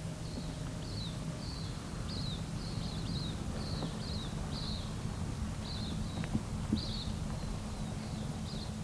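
A bird giving a run of short, high, falling chirps, two or three a second, over a steady low hum.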